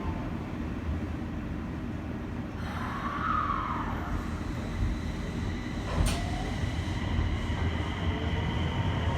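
Interior sound of an N1000-series subway car with a Mitsubishi IGBT-VVVF inverter: a steady low rumble of the train, with a brief tone that rises and falls about three seconds in and a sharp click about six seconds in.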